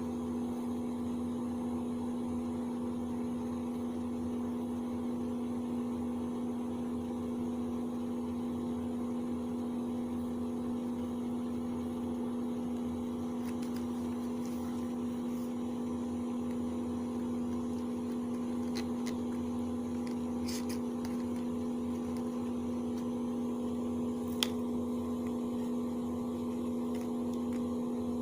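Steady low hum, like a running appliance or fan, with a few faint clicks in the second half and one sharper click near the end.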